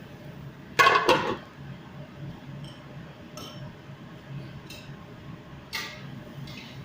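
Dishes and cookware clattering: two loud clanks close together about a second in, then a few lighter clinks, over a steady low hum.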